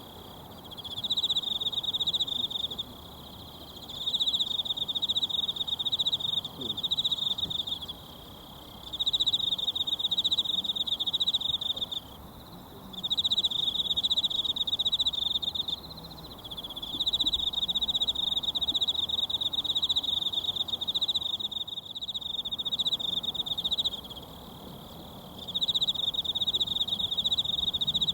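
An insect trilling high and fast in phrases of a few seconds each, broken by pauses of about a second, over the faint steady rush of a mountain stream.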